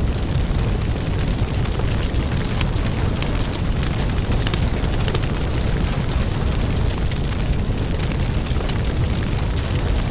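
Wood fire burning steadily in a fireplace, with a low rumble and a dense run of small crackles and pops.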